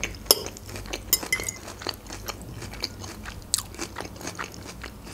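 Close-miked chewing of a mouthful of Caesar salad: an irregular run of crisp crunches and small wet mouth clicks.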